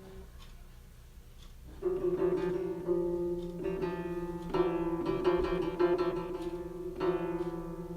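Plucked string instrument playing: nearly quiet for the first couple of seconds, then picked notes repeated around one pitch, with a quicker run of notes about halfway through.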